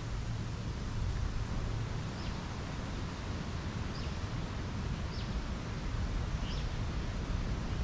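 Steady outdoor ambience, a low rumble and hiss, with a small bird giving several short, high chirps spread through it.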